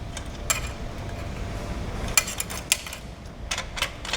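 Light, sharp metallic clicks and clinks, about six at irregular intervals and several close together in the second half, as a small metal fusible link is fitted into a sheet-metal fire damper by hand.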